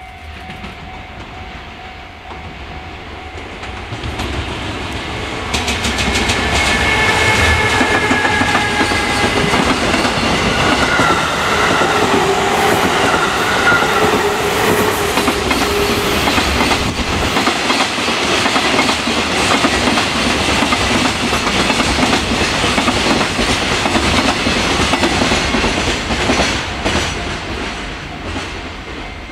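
Electric trains passing close: a stainless-steel electric multiple-unit passenger train and an EF210 electric locomotive hauling a container freight train, wheels clattering over the rail joints. The sound grows from about four seconds in, stays loud for some twenty seconds with whining tones that fall in pitch, then fades near the end.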